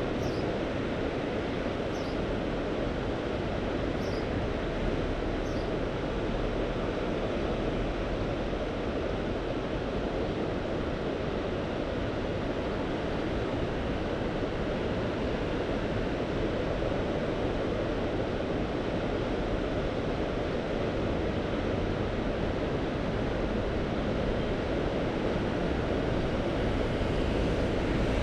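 Mediterranean sea surf washing steadily, an even noise with a low rumble underneath.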